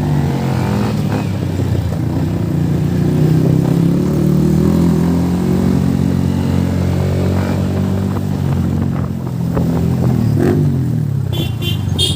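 Motorcycle engine under way. Its pitch drops as it eases off at the start, climbs as it speeds up, holds steady, then drops again near the end. A short pulsing beep sounds near the end.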